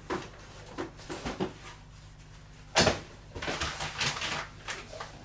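Hard objects being handled and set down on a workbench: scattered knocks and light clatter, with one loud knock a little under three seconds in, followed by a second or so of rattling and rustling.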